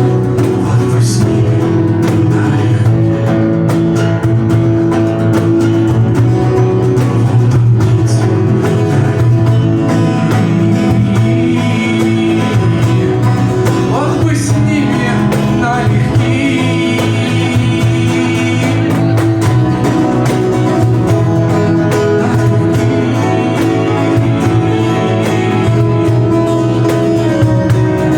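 Live acoustic music: guitar playing steadily under a held melody line, with no break in the music.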